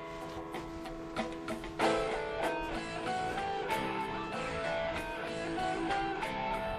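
Guitar music, plucked and strummed, growing louder and fuller about two seconds in.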